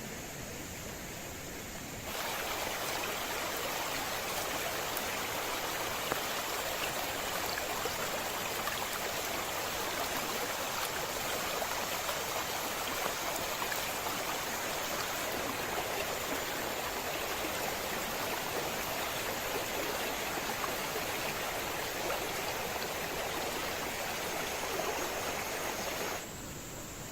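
Steady rush of water, as of heavy rain or a swollen river. It comes in abruptly louder about two seconds in and drops back just before the end.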